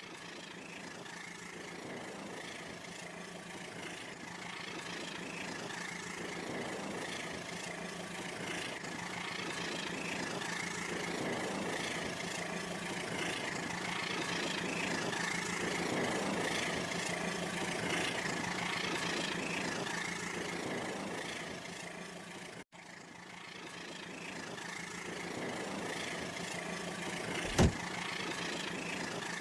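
Wood fire burning in a fireplace: a steady rushing burn over a low hum, with one sharp loud pop near the end. The sound cuts out for an instant a little past the middle.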